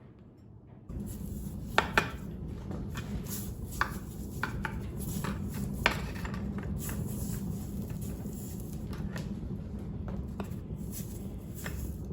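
Irregular metallic clinks and knocks of iron and hand tools being handled. About a second in, a steady low hum starts and runs underneath.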